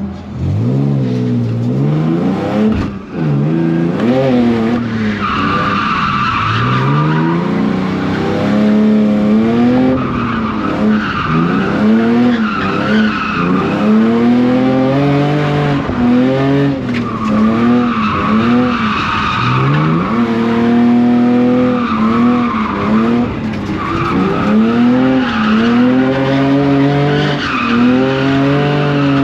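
E46 BMW drift car's engine revving up and falling back again and again, with tyre squeal coming and going as the car slides through drifts.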